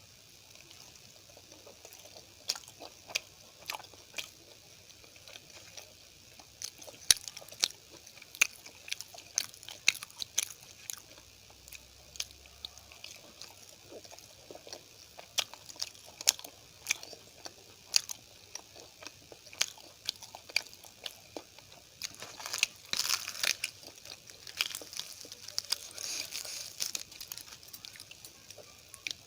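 Close-miked eating: chewing and biting with many irregular wet mouth clicks and smacks, as poori, potato curry, rice and sambar are eaten. The chewing grows busier and louder about three quarters of the way through.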